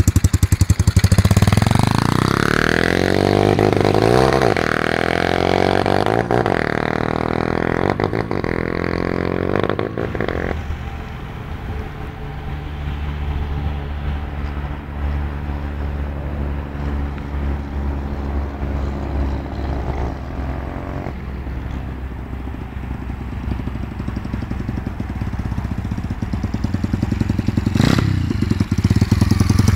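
125cc supermotard motorcycle engine revving and pulling away, its pitch rising through several gears over the first ten seconds. It then runs more faintly and steadily at a distance, and grows louder again near the end as it comes back, with one sharp click.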